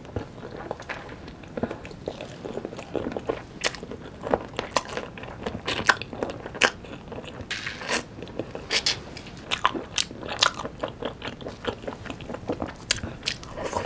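Close-miked biting and chewing of sauce-coated Korean yangnyeom fried chicken, with many sharp, irregular crunches of the crisp coating.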